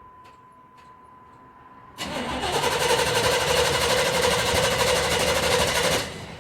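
Carbureted small-block Chevy V8 (Vortec heads, hot cam) being cranked cold with no choke. About two seconds in, a loud, rapidly pulsing engine noise starts suddenly. It holds for about four seconds, then cuts off and dies away.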